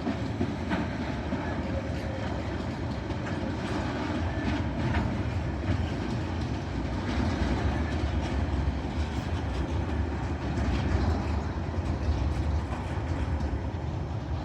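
Tasrail freight train rolling past at close range: a steady rumble with scattered clicks from the wheels on the track.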